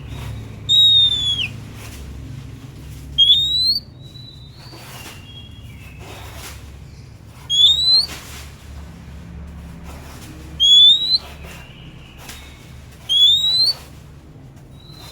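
Oriental magpie-robin (kacer) singing: five loud clear whistles a few seconds apart, the first falling in pitch and the other four sliding upward, with softer short whistles between them.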